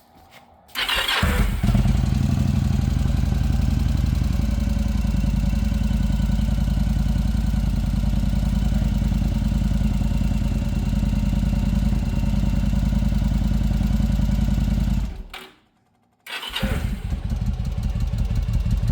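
A 1100 cruiser motorcycle engine starting from cold about a second in and running at a steady idle. Near the end it cuts out for about a second, then starts again and runs.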